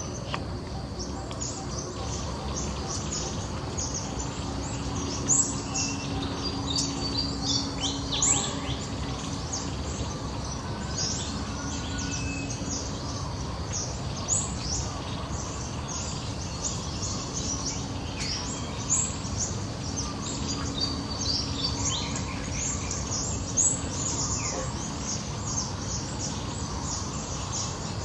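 Many small birds chirping in the background, a dense run of short high chirps overlapping throughout, over a steady low rumble.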